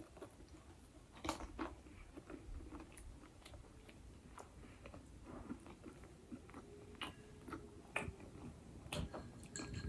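A person chewing food close to the microphone, with soft irregular clicks and small crunches.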